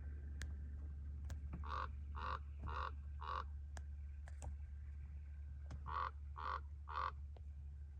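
Chihuahuan raven cawing in two runs of short, evenly spaced calls, four and then three, about two a second, over a steady low hum. The uploader hears the calls as mimicking the car's bells.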